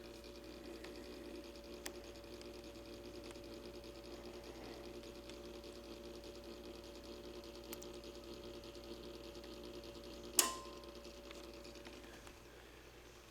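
Simplex Time Recorder synchronized clock mechanism running with a steady hum and fine, rapid ticking, like a small motor turning a gear train. A sharp click with a brief ring comes about ten seconds in.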